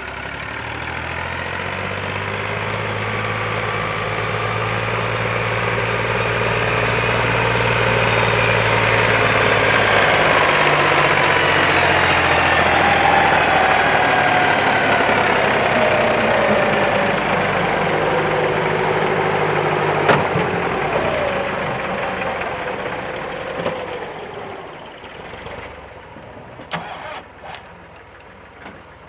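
Massey Ferguson 260 tractor's diesel engine running, with a loaded trolley. It swells over about ten seconds, holds, then fades away in the last third, its pitch sliding down as it goes. There is a single sharp click about twenty seconds in.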